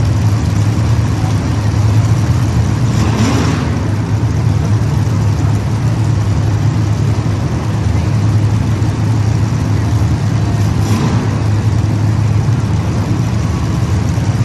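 Race car engines running steadily as a field laps the track, with a car passing close and loud about three seconds in and again near eleven seconds.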